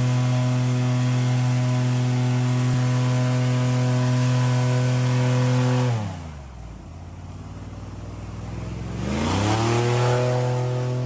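Engine running steadily at high revs, then throttled back about six seconds in so its pitch drops sharply, and revved back up to the same steady pitch about three seconds later.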